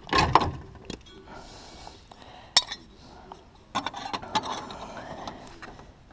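Small sheet-steel patch piece clinking and knocking against metal as it is handled and tried in place, not yet fitting and needing more shaping. There are a few sharp knocks early on and a quick run of clinks a little past halfway.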